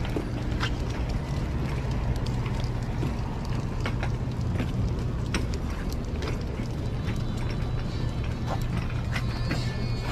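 Irregular light clicks and taps, like puppies' claws and paws moving about on a hard surface, over a steady low hum.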